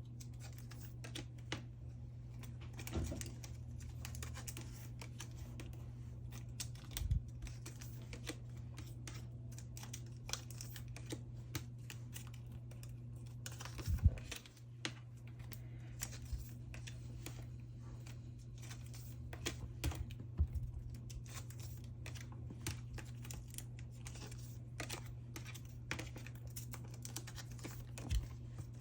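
Photocards being slid out of plastic sleeves and handled, making many small clicks, taps and plastic crinkles over a steady low hum. A louder knock comes about halfway through.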